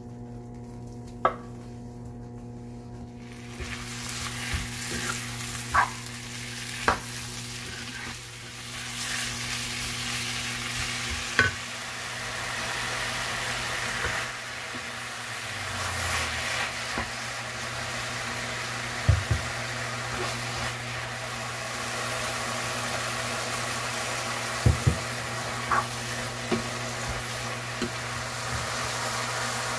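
Food frying in a pan: a sizzle that swells about three to four seconds in and keeps going, with sharp clicks and scrapes of a utensil stirring it, over a steady low hum.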